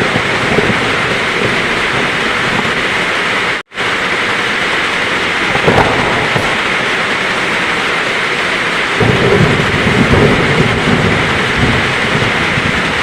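Heavy rain falling steadily, with a low rumble of thunder about nine seconds in. The sound cuts out completely for a split second just before four seconds in.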